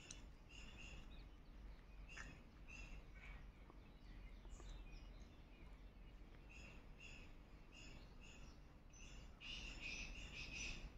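Faint bird chirps repeating in short, quick calls, busiest and loudest near the end, over a low background hum.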